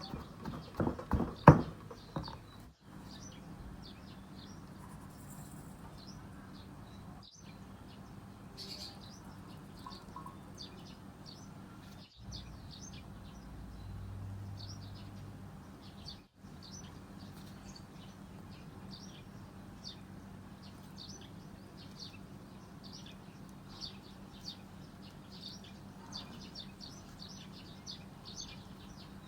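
Small birds chirping in quick short calls over a steady low hum, with a handful of sharp knocks in the first two seconds.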